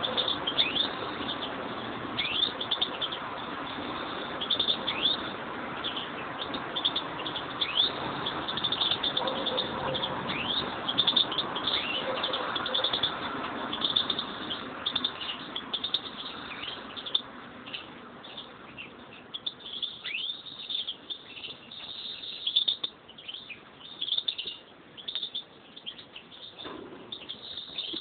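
Pet European greenfinches chirping repeatedly in short, quick falling notes, over a steady background rush that drops away about two-thirds of the way through.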